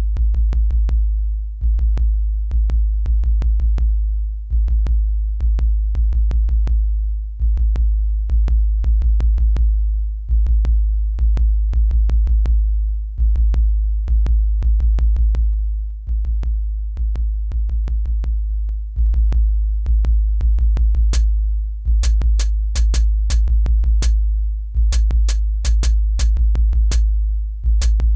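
Instrumental electronic beat: long, heavy sub-bass notes under sharp drum-machine clicks and hi-hats. The hi-hat pattern gets busier in the last several seconds.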